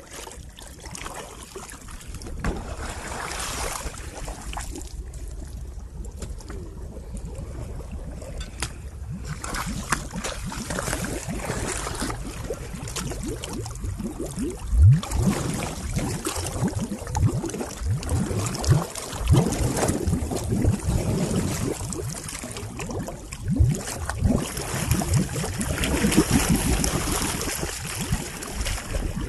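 Floodwater running down a cleared storm drain. A steady rush of water carries through, with many irregular low bumps in the second half, like wind hitting the microphone.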